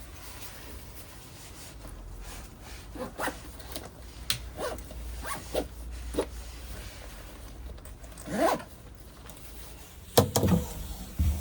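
A series of short rasping pulls, like a zipper or packaging being drawn open, spread over several seconds, followed by a few louder knocks near the end.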